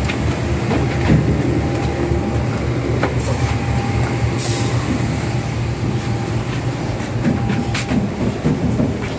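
Passenger train hauled by a CC 201 diesel locomotive, running with a steady low rumble and a few sharp clicks scattered through.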